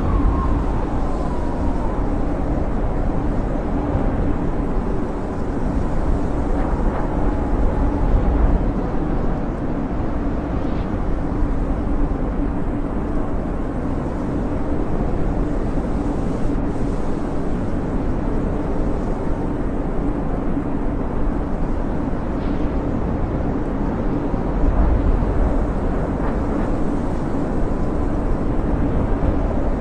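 Snowstorm wind howling steadily, a dense low rumble with a faint wavering whistle near the start.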